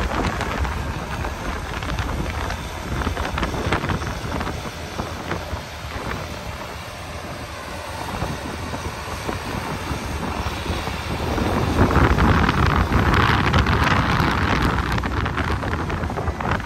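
Strong blizzard wind buffeting the microphone, swelling into a louder gust about twelve seconds in.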